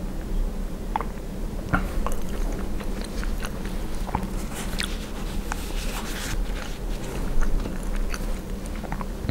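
Close-miked chewing of poutine (fries, cheese curds and gravy), with many short, irregular wet clicks and crackles from the mouth.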